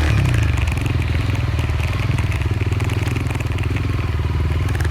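Motorcycle engine running on a dirt road. Right at the start its note drops to lower revs and settles into a steady, rapidly pulsing chug.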